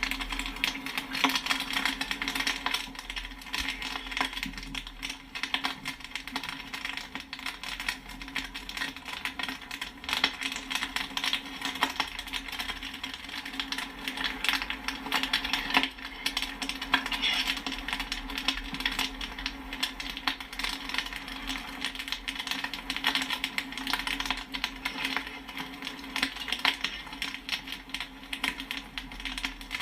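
Popcorn kernels popping rapidly and continuously, a dense patter of sharp pops over a steady low hum.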